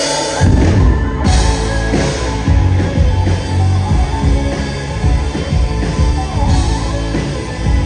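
Live rock band playing the opening of a song, with heavy bass and drums coming in about half a second in.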